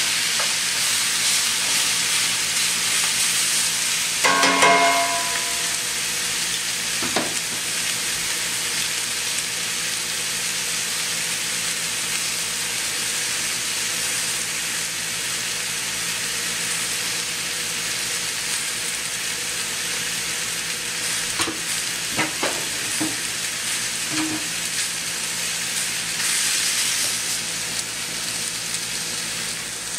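New York strip steaks and collard greens frying in a pan with a steady sizzle, with a ringing metal clink about four seconds in and a few light taps later on from the tongs working the food.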